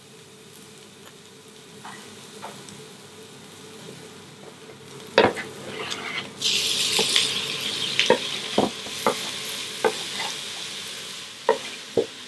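Chopped onions sizzling quietly in an enamelled cast-iron pot over a gas burner. About six seconds in, diced tomatoes are scraped off a plastic cutting board into the hot pot with a knife and the sizzle jumps loud. Sharp knocks and clicks of the knife against the board and pot follow.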